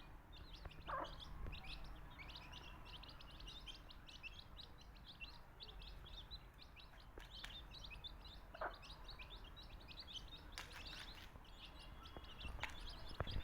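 A brood of baby chicks peeping continuously in short, high, overlapping calls, with two brief lower calls among them.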